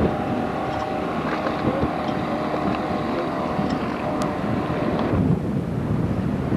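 Motorboat engine running steadily under wind buffeting the microphone; the engine's tone fades about five seconds in, leaving the wind rumble.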